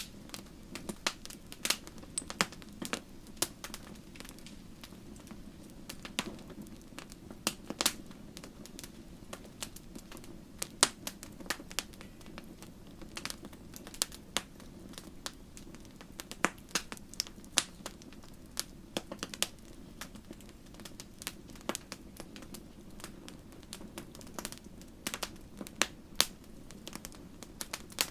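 Wood fire crackling in a fireplace: irregular sharp pops and snaps, sometimes several in quick succession, over a steady low background of the burning fire.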